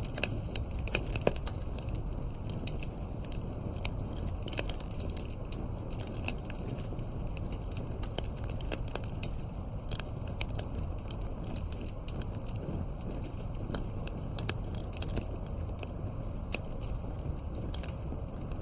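Wood campfire crackling: frequent, irregular sharp pops and snaps over a steady low rush of burning.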